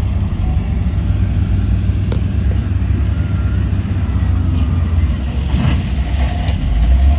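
Heavy diesel engine of earthmoving machinery running steadily with a deep low rumble, with a short hiss about five and a half seconds in.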